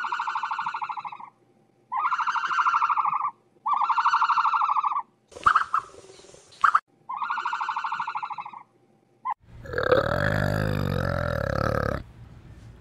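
Four harsh, buzzing animal calls, each a little over a second long, repeating every couple of seconds. Near the end a different, deeper and noisier animal sound takes over for a few seconds.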